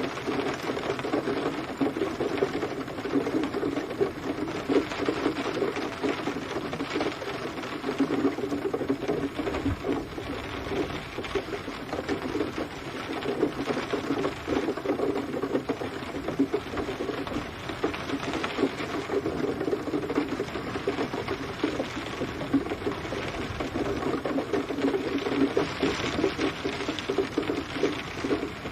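Heavy rain pattering densely on a hard surface, a rapid crackle of drops that swells and eases in waves every few seconds.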